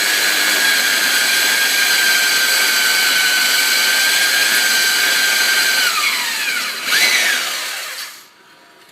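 Milwaukee portable band saw running as it cuts through a 2.5-inch pipe, a steady high whine over the cutting noise. About six seconds in the whine falls in pitch as the motor winds down, with a short burst of noise near seven seconds before the saw goes quiet.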